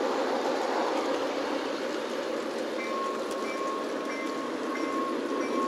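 Model diesel railcar running on a garden railway track: a steady rumble of wheels and drive on the rails, with a thin high whine that joins about halfway through.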